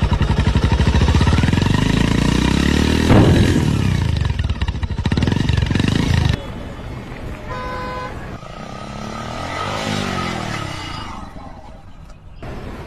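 Motorcycle engine running loud and revving, its pitch rising and falling about three seconds in, then cutting off abruptly about six seconds in. A short horn toot follows near eight seconds, then a quieter vehicle engine swells and fades.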